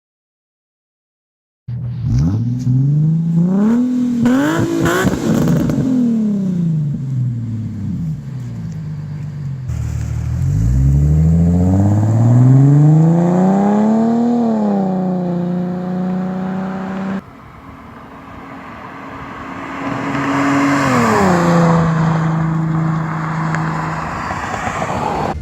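Infiniti G37S 3.7-litre V6 running through newly fitted aftermarket axle-back mufflers. The engine is revved up and let fall back to idle three times, in three separate short takes, and holds a steady idle between the revs.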